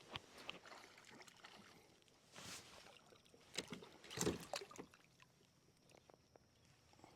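Faint water sounds around a kayak: light splashes with scattered small knocks and clicks, the loudest swell about four seconds in.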